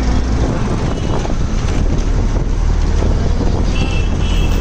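Wind rumbling on the microphone over a loud, steady wash of street traffic noise, with a few brief high tones near the end.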